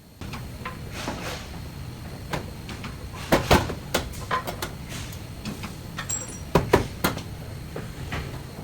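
Irregular knocks and clunks from car body repair work over a steady low rumble, the loudest coming as two quick double knocks, one near the middle and one about two-thirds of the way through.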